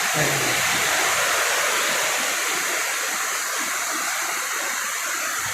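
Heavy rain pouring down, a dense, steady rush.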